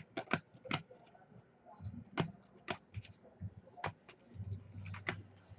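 Trading cards being handled and sorted by hand: a run of sharp, irregular clicks and flicks of card stock, about eight in all.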